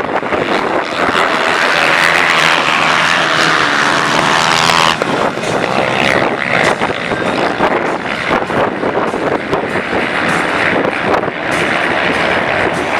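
Racing motorcycle engines running hard at high revs. The sound changes abruptly about five seconds in, from one strong engine note to a noisier, crackling mix.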